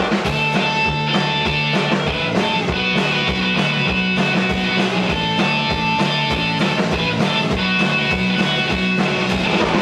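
Live rock band playing an instrumental passage: electric guitars over bass and a steady drum beat.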